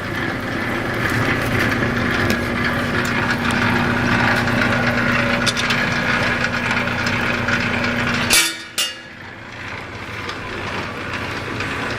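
QJ009 electric cable-stripping machine running with a steady hum and whir; about eight seconds in there is a sharp clack and the hum stops, leaving quieter background noise.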